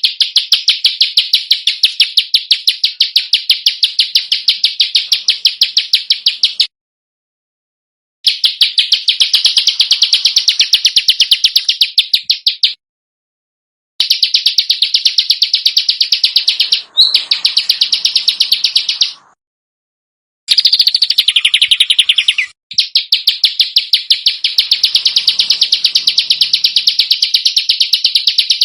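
Songbird giving rapid, harsh, tightly spaced screeching notes, many per second. The notes come in long runs of several seconds broken by short pauses. It is a masteran recording of harsh, rapid 'shots' used to teach competition birds to copy.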